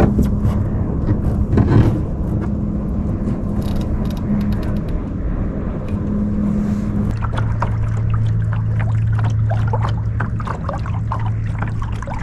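A steady low motor hum that drops to a lower note about seven seconds in, with small water splashes and ticks on top from then on.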